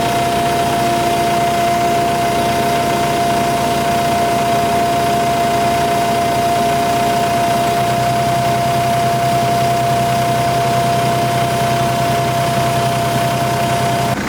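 Excavator's diesel engine running steadily, with a steady high whine over it; the low engine hum grows stronger about halfway through.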